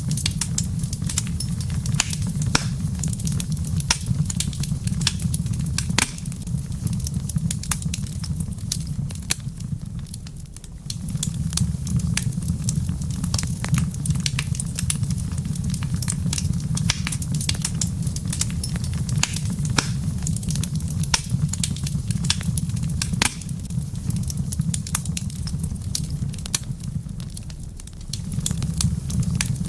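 Wood fire crackling in a fireplace: frequent sharp pops and snaps over a steady low rumble, which fades briefly twice.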